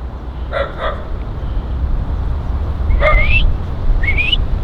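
Puppy whimpering: three short, high, rising whines in the last two seconds, over a steady low rumble.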